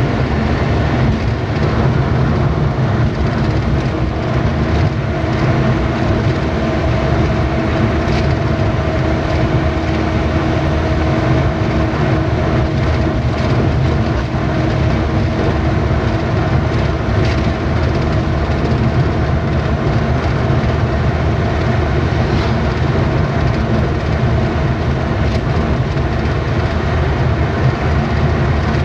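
Steady engine and road noise of a moving vehicle, heard from inside, a deep rumble with a constant hum running through it.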